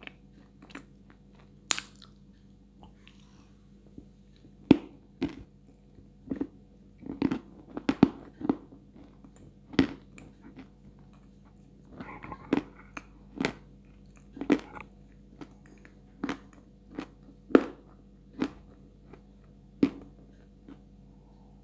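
Close-miked crunching and chewing of dry, medium-hard white edible clay, about twenty sharp, irregular crunches with softer chewing between, loudest about five and eight seconds in.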